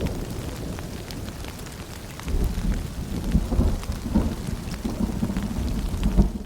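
Rain ambience of steady patter with scattered drips, over a low rumble that eases and then swells again about two seconds in.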